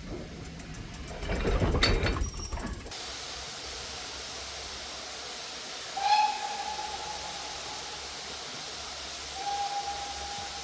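Steam locomotive whistle sounding two blasts on one steady pitch, a longer one about six seconds in and a shorter one near the end. Before them a loud rushing noise fills the first three seconds and cuts off abruptly.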